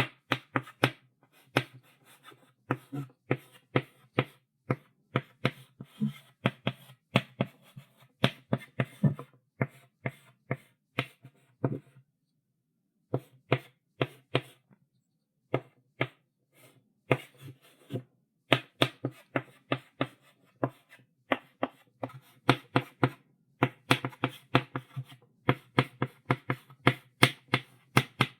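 Chalk writing on a blackboard: a quick run of taps and scratchy strokes, several a second, with a couple of brief pauses about halfway through.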